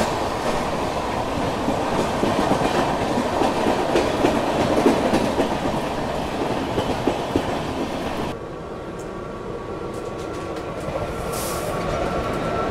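Express train running at speed, heard from its open coach door: a loud, steady rumble of wheels on rail with the clickety-clack of rail joints. About two-thirds of the way in the sound changes abruptly to a quieter rumble with a steady high whine, as an electric locomotive runs alongside on the next track.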